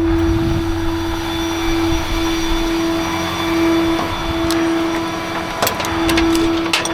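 Tow truck running with a steady, even mechanical whine, and a few sharp metallic clicks near the end as a tie-down strap is handled.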